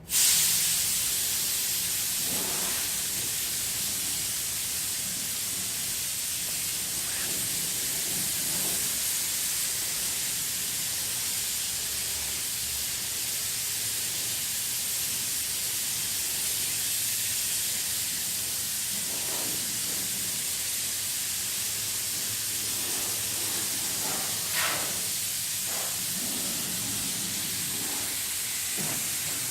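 A steady, loud hiss, strongest at high pitch, starting abruptly, with a few faint brief sweeps under it.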